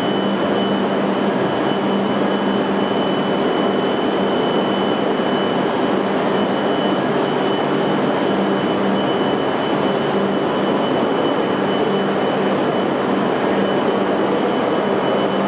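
E5 series Shinkansen standing at the platform, its onboard equipment giving a steady hum and whir, with a low hum and a thin high whine running through it.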